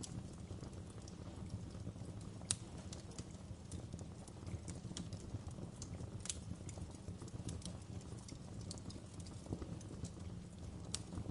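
Wood fire burning in a fireplace: a steady low rumble with irregular sharp crackles and pops, the loudest about two and a half seconds in.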